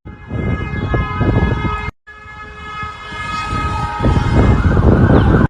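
Emergency sirens sounding over loud low rumbling noise. The sound cuts out abruptly about two seconds in.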